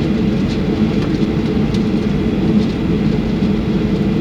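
Airliner's jet engines and airframe rumbling steadily, heard inside the passenger cabin during takeoff, with a few faint rattles.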